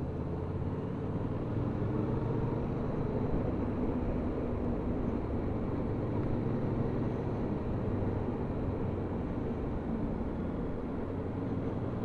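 Motorcycle engine running steadily at road speed, with wind and road noise. It gets a little louder about two seconds in.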